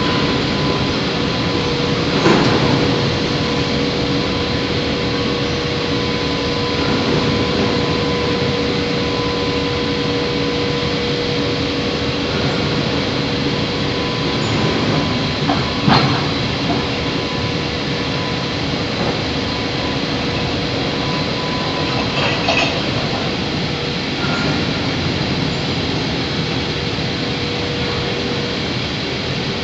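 Old forging crane running, creaking: a steady mechanical hum with a held tone under it, and a few short sharp squeaks, about two seconds in, midway, and again about three quarters through.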